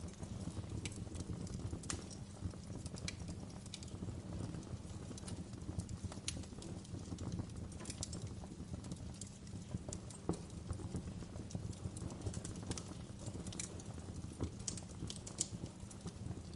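Wood fire burning in a fireplace: a steady low rumble of flames with frequent sharp, irregularly spaced crackles and pops.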